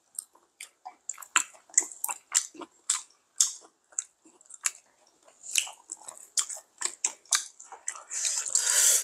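Close chewing and mouth noises: a string of short wet clicks and smacks, about two a second, picked up by a clip-on microphone, with a longer hiss near the end.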